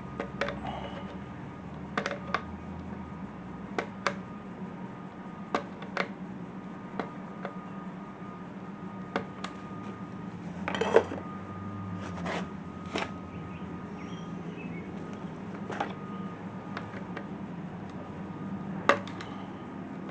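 Irregular light clicks and clinks of a hand tool and metal hose-clamp parts as a clamp is tightened on the intake boot, a dozen or so spaced a second or more apart, with a longer clatter about eleven seconds in. A steady low hum runs underneath.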